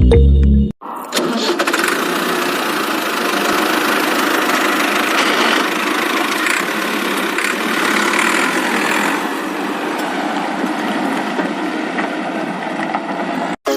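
Music that stops after the first second, then a small motor running steadily for about twelve seconds. It cuts off just before the end.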